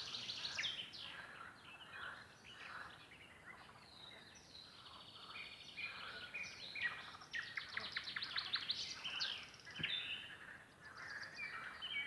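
Nightingales singing in a forest: dense song of rapid runs of repeated clicking notes, fast rattling trills and short pure whistles, several phrases following one another with hardly a pause.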